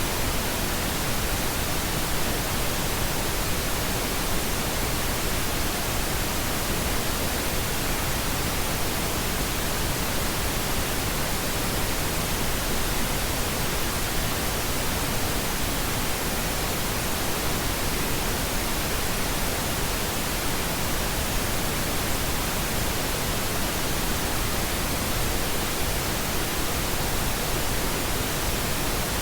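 Pink noise: a steady, unchanging hiss spread evenly across all pitches, with no breaks or events.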